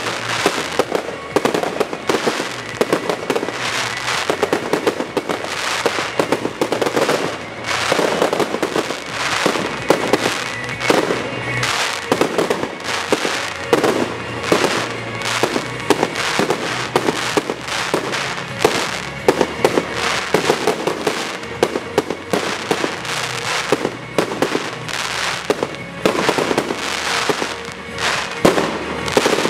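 Aerial fireworks launching and bursting in a fast, unbroken volley of bangs and crackles, several a second.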